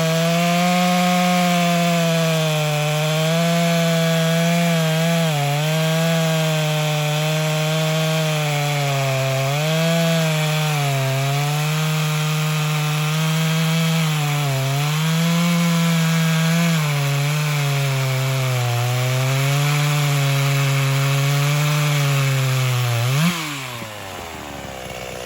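Ported Stihl 036/044 hybrid chainsaw at full throttle, its 20-inch bar and .325 RS chain buried in silver maple. The engine pitch sags and recovers as the chain loads up in the cut. Near the end it revs sharply as the chain breaks free, then winds down toward idle.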